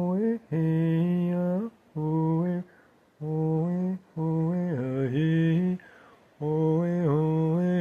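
A man's voice chanting without words in slow held notes, in short phrases separated by brief pauses, some of them ending with an upward slide in pitch.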